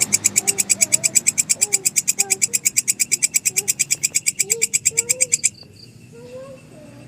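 Grasshopper stridulating: a loud, fast, even train of high, rasping pulses, about eight a second, that stops abruptly about five and a half seconds in. Faint rising and falling calls sound underneath.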